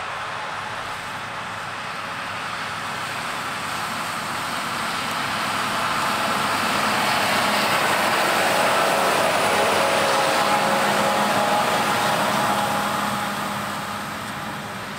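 Engine and machine noise of harvest machinery passing by: it grows louder to a peak about two-thirds of the way in, then fades.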